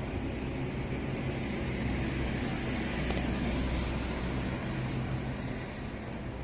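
Train running past with a steady low drone and rumble.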